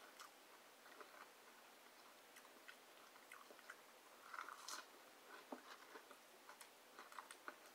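Faint chewing and mouth sounds of a person eating breaded fish sticks spread with grape jelly, with the loudest bite about four seconds in.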